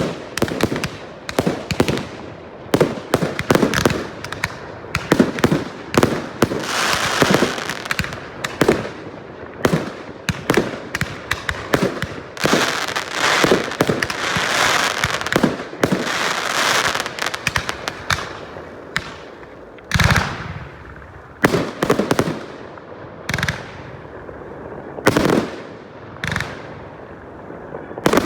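Fireworks display with a rapid run of bangs from shell bursts and crackling effects, densest in the middle. Near the end it thins to single loud bangs a few seconds apart.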